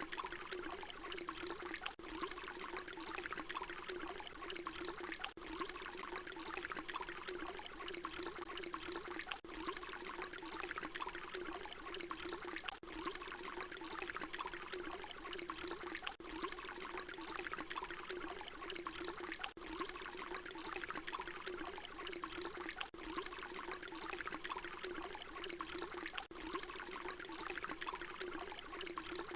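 Water pouring in a steady, unbroken stream. It is a short recording looped over and over, with a brief dip in level every three to four seconds where the loop restarts.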